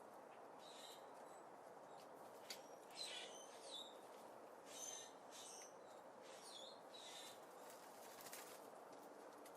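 Small songbirds giving short high chirps and calls, loudest about three to five seconds in, over a faint steady hiss.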